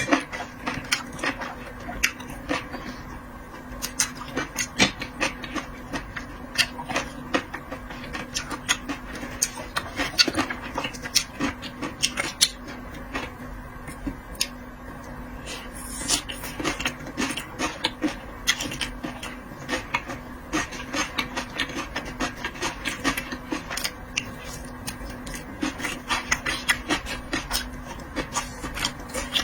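Close-up eating sounds: wet chewing, lip smacks and small crunches of someone eating seafood, coming as a rapid, irregular run of clicks over a faint steady hum.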